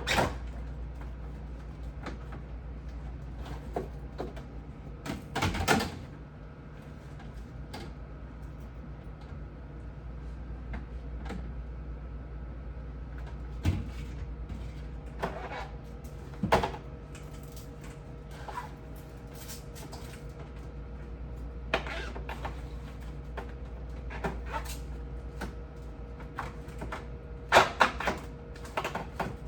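Irregular knocks and clatter of refrigerator shelves, drawers and parts being handled during cleaning, with a steady low hum underneath. The clatter is heaviest near the end.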